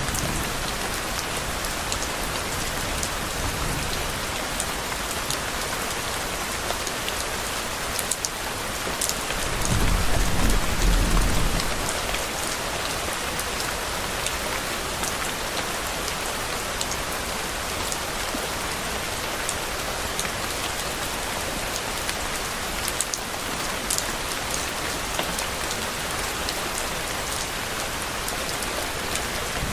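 Steady rain falling on a surface, an even hiss with individual drops ticking through it. About ten seconds in, a low rumble of distant thunder swells for two or three seconds and fades.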